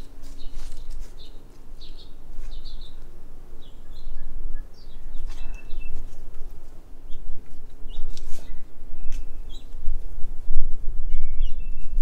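Small birds chirping in short high notes, with a few brief whistled tones, over a steady low rumble. Occasional light clicks or rustles.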